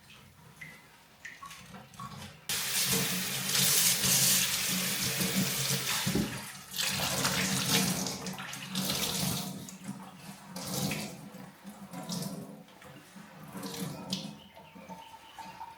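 Kitchen sink tap turned on about two and a half seconds in, water running into the sink, the splash rising and falling as things are held under the stream, with a few light clicks before it starts.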